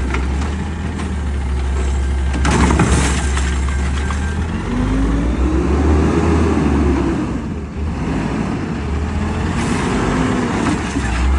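Peterbilt 520 garbage truck's diesel engine running, revving up once to a peak about six seconds in and easing back down. There are short hissing or clattering bursts about two and a half seconds in and again near the end.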